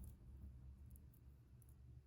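Near silence with a few faint, light clicks: a diamond painting pen placing resin drills on the canvas.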